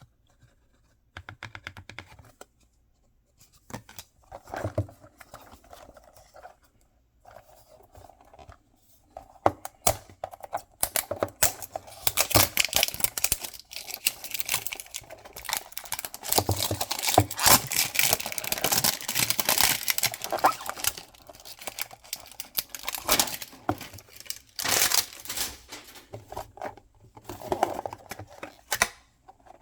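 Packaging being torn open and crinkled by hand: irregular tearing and crinkling, sparse at first and then nearly continuous, with short pauses.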